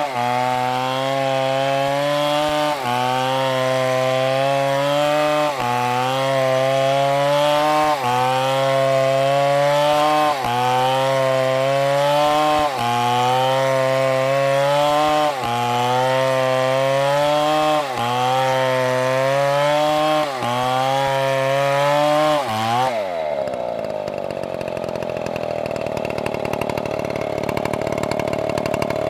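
MS720 chainsaw running at full throttle in a cut. Its revs sag and recover in a regular rhythm about every two and a half seconds. About 23 seconds in, the throttle is released and the engine falls to idle.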